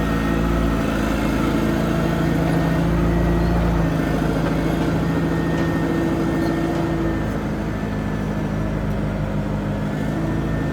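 A compact track loader's engine running steadily, its note shifting slightly about four seconds in and again near seven seconds as the load changes.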